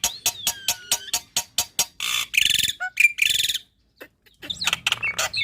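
Black-winged myna (jalak putih) singing a mimicry-filled song. It opens with a fast series of clicks, about six a second for two seconds, then gives two loud, harsh screeches with a short whistle between them. After a brief pause it goes on with warbled whistles.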